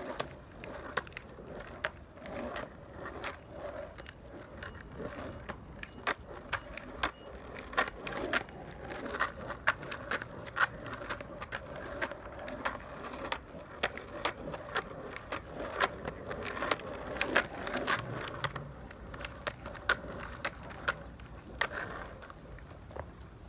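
Skateboard rolling over rough pavement: a steady wheel rumble with many irregular sharp clicks and knocks as the wheels run over cracks and grit.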